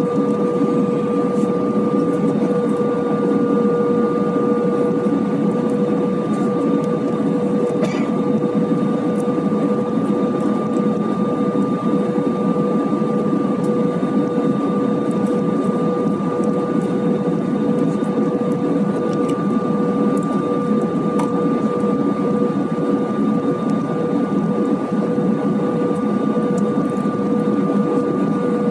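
Airbus A320 passenger cabin in flight: a steady drone of engine and airflow noise with a few constant humming tones.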